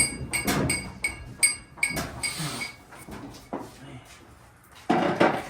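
Metal striking metal during an engine removal: a quick run of ringing clinks, about four a second in the first two seconds, then a short rustle and a louder knock near the end.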